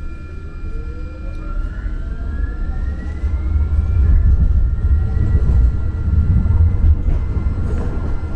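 Muni Metro light-rail car accelerating, heard from inside the car: a deep rumble of wheels on track under a traction-motor whine that rises in pitch over the first few seconds, getting louder about three seconds in.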